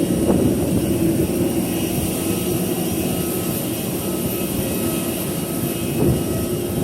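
Steady jet airliner noise: a constant rushing hum with a few held whining tones, which holds level throughout.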